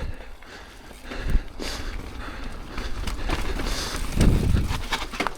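Mountain bike clattering down a rocky trail section: uneven knocks and rattles of the wheels, chain and frame over rocks, with a steady rumble. The heaviest thumps come about a second in and again around four seconds in.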